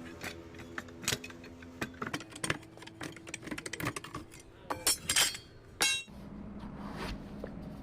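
Metal tools and parts clinking and clanking during truck tyre work: a run of irregular knocks, with a few louder ringing metal strikes about five to six seconds in. A low steady engine hum comes in near the end.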